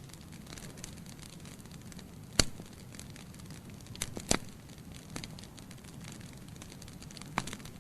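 Wood fire of burning logs crackling in a fireplace: a steady low rush of flame with scattered small crackles and a few sharp pops, the loudest about two and a half seconds in and a pair around four seconds in.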